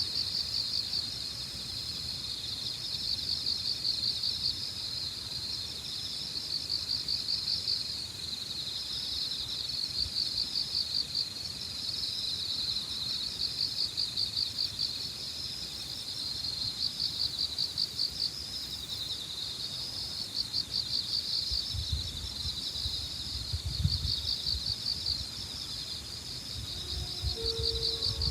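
Dense chorus of autumn insects trilling high and steady, pulsing in repeated swells. A low rumble of wind on the microphone comes in during the last several seconds.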